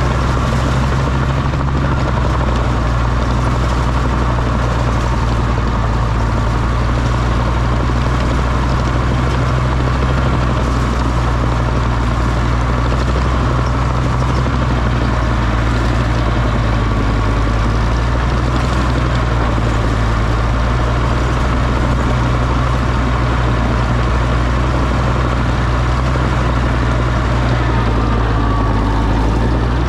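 Oliver OC-6 crawler tractor's engine running steadily at a constant speed.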